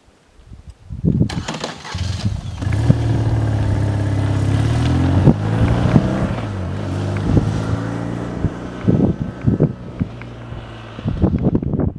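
Motorcycle engine starting about a second in and then running at idle, its pitch dipping and rising briefly in the middle before it fades near the end.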